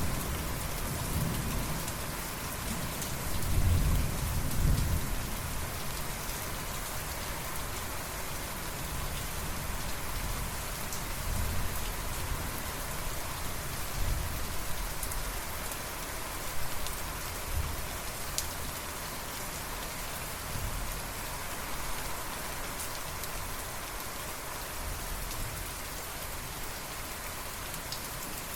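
Steady rain falling, with a low rumble of thunder in the first few seconds that fades away.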